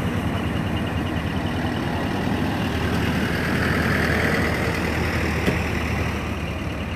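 Large truck engine idling steadily, with a hiss swelling and fading around the middle and a single sharp click about five and a half seconds in.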